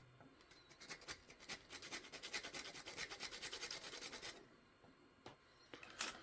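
Rapid scratchy rubbing strokes on a 3D-printed plastic part being scraped clean, quickening into a fast run that stops suddenly about four seconds in. A single sharp click near the end.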